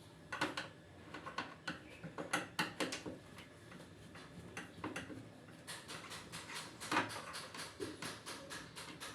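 Irregular light clicks and taps of parts being handled on a washing machine, several a second, coming faster after about halfway, with one sharper knock near the end.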